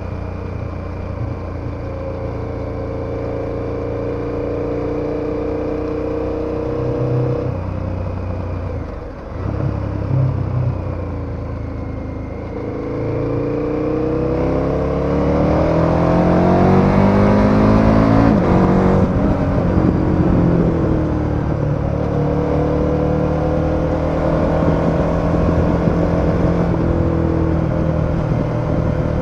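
KTM 1290 Super Adventure's V-twin engine while riding: steady cruising, the throttle backs off briefly about nine seconds in, then the engine pulls with rising pitch, drops at a gear change about halfway through, and settles back to a steady cruise.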